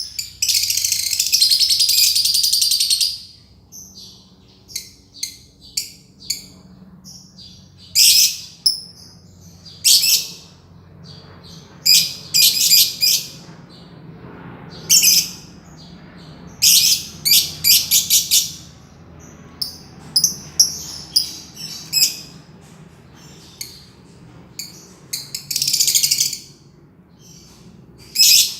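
Green lovebird chattering in its long 'ngekek' song: a rapid, high-pitched trill held for about three seconds at the start, then repeated shorter bursts of chatter and single chirps, with another long trill near the end.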